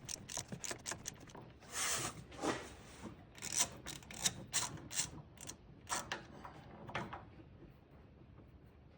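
Hand ratchet wrench clicking rapidly as a fastener is worked. The clicking stops after about a second and a half, giving way to rough scraping and a few scattered single clicks and knocks of metal tools and parts.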